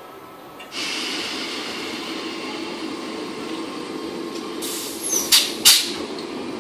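Southern Class 455 electric multiple unit running into the platform, its steady running noise starting suddenly close by. About five seconds in, three or four short, loud bursts rise above it.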